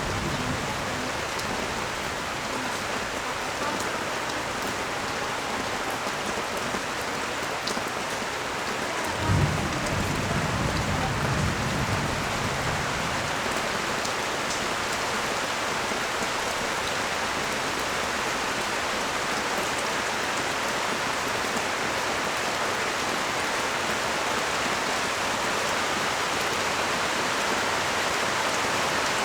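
Steady rain falling on the street and surfaces below a balcony. About nine seconds in, a brief low rumble starts suddenly and fades over a couple of seconds.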